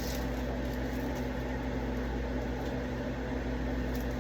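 Steady electrical hum of a running kitchen appliance, a low drone with a faint buzz, holding even throughout.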